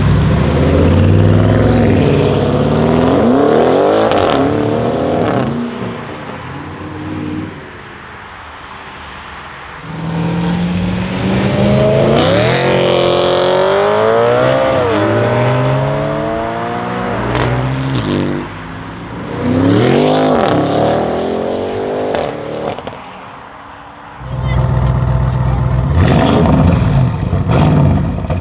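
Audi RS6 C8's twin-turbo 4.0-litre V8 with catless downpipes, OPF delete and an aftermarket exhaust, accelerating hard in four bursts. Its pitch climbs and drops back at each gear change, with a few sharp exhaust cracks.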